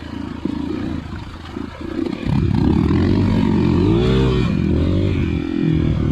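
Trail motorcycle engine running at low revs, then opened up about two seconds in and revved up and down.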